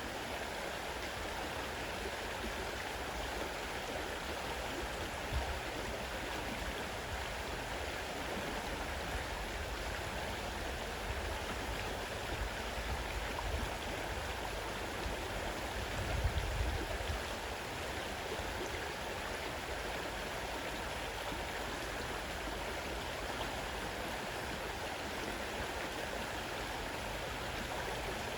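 Fast-running river rushing steadily. There is a brief low rumble a little past the middle.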